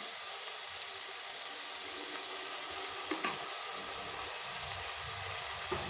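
Shredded chicken filling sizzling steadily in oil in a frying pan, with a couple of faint clicks from about three seconds in and near the end.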